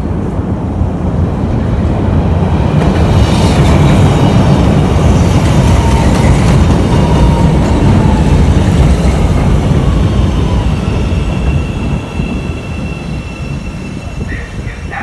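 A train passing with a heavy rumble that builds, holds for several seconds and then fades away, with faint wheel squeal ringing over it.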